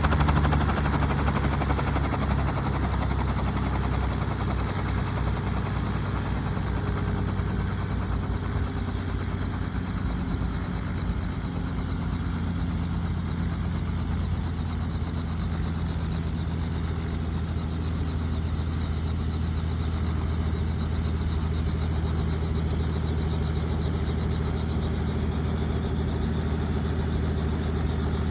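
Helicopter engine and rotor running steadily, with a low, even hum; the level eases slightly over the first few seconds, then holds.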